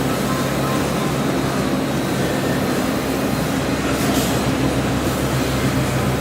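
Industrial meat brine injector machine running, a steady mechanical hum with an even noise over it.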